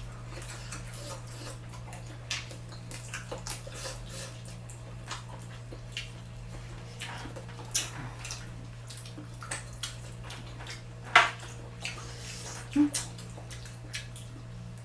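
Wet eating sounds of a seafood meal: scattered smacks and clicks of chewing and handling shrimp, one sharper click about eleven seconds in, over a steady low hum.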